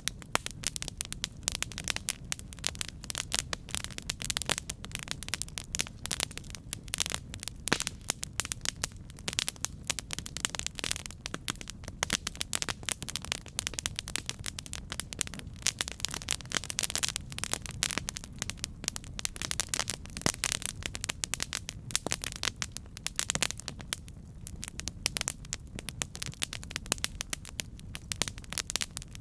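Campfire burning, with dense irregular crackling and popping over a steady low rumble of the flames.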